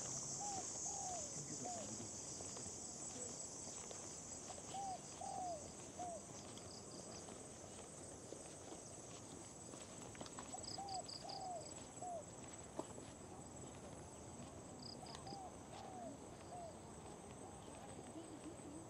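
Tropical jungle insect chorus, a steady high-pitched shrill that eases off a few seconds in, with a bird repeating a short three-note call about every five seconds.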